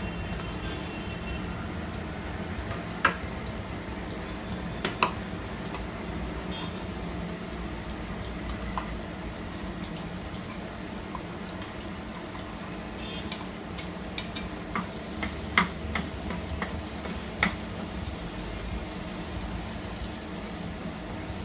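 Ground masala paste frying in hot oil in a nonstick pan, a steady sizzle as it is spooned in and stirred. Sharp clicks of the spoon knocking against the pan and bowl come now and then, most of them in a cluster past the middle.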